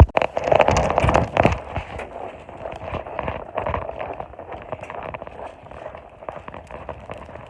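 A run of crunching, crackling steps in deep snow, loudest and densest in the first second and a half, then lighter and more scattered.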